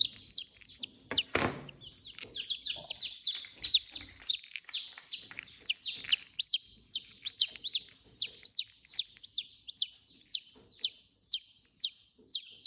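Newly hatching chicken chick, stuck in its egg, peeping over and over in short, high, falling notes, about two to three a second. There is a single knock about a second in.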